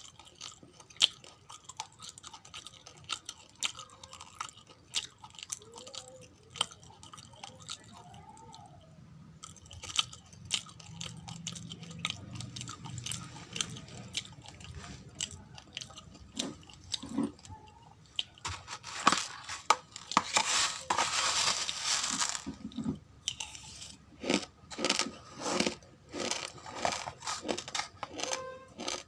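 Uncooked rice grains being chewed close to the microphone: irregular sharp crunches and cracks. A dense stretch of continuous crackling comes about two-thirds of the way in.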